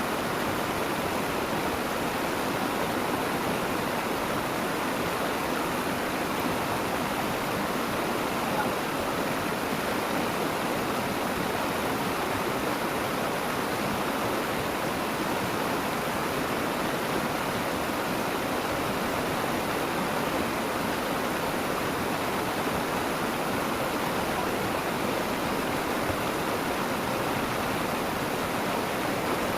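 Steady rushing of flowing water in a stream or ditch, even and unbroken throughout.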